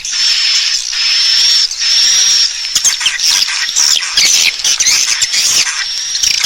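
Swiftlet calls used as a lure for swiftlet nest houses. A string of buzzy chirps, each under a second long, gives way about three seconds in to a fast, dense twittering of short falling chirps.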